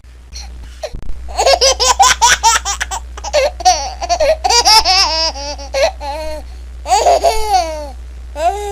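A baby laughing in a run of quick, high-pitched bursts starting about a second in, pausing briefly, then laughing again near seven seconds and once more near the end.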